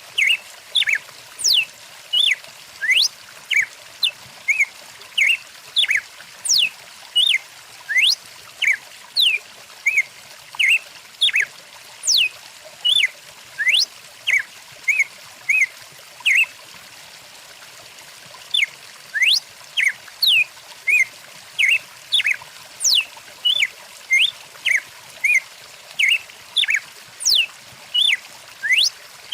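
Small birds chirping rapidly, short high chirps mixed with quick sweeping whistles, with a brief pause about halfway through, over the steady rush of a running stream.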